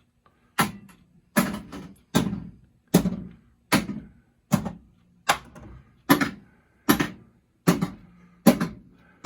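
Pinball machine solenoids firing one after another in the driver board's solenoid test: about a dozen sharp clacks, evenly spaced a little under a second apart, each with a short metallic ring. The coils are all firing, showing a working solenoid driver board.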